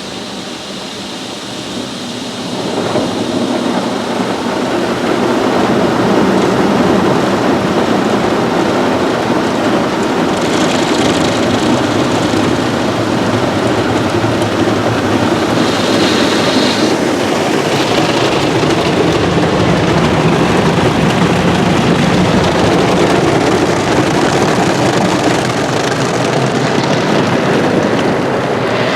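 Mark VII rollover car wash gantry passing over the car with its rotating brushes and rinse water, heard from inside the car as a loud, steady rush and drumming on the body. It builds over the first few seconds, then holds.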